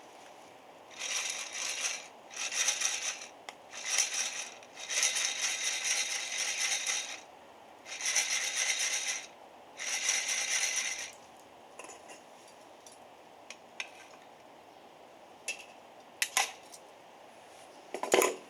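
Coffee beans rattling against metal in six bursts of shaking, some short and one about two seconds long, followed by a few scattered clicks and a sharp knock near the end.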